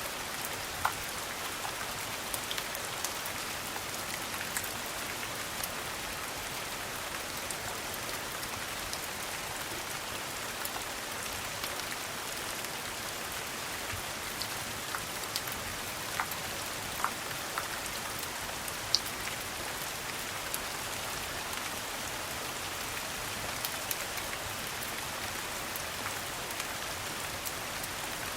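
Steady rain falling, an even hiss with scattered sharp clicks and pops every second or two.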